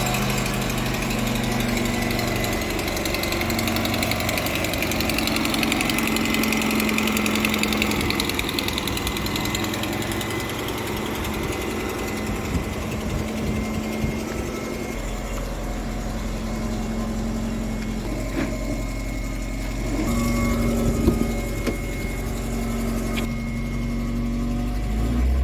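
Four-cylinder car engine idling steadily, with no revving.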